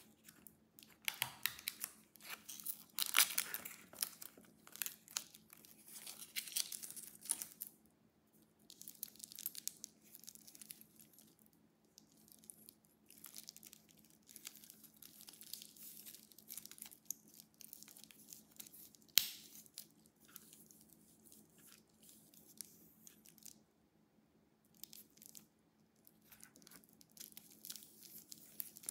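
Watch packaging being handled and unwrapped by hand: irregular crinkling and tearing of wrapping material with scattered small clicks. It is loudest in the first third, with one sharp click a little past the middle.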